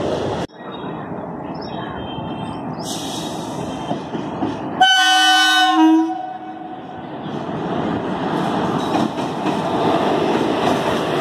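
Freight wagons rolling past with a clickety-clack, cut off suddenly half a second in. An Indian Railways electric passenger locomotive then sounds its horn in one blast of about a second, around five seconds in. The rumble of the locomotive and its coaches builds as the train approaches.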